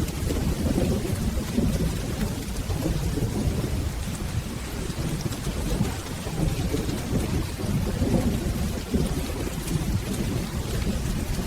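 Steady rain with low rolling thunder rumbling and swelling underneath.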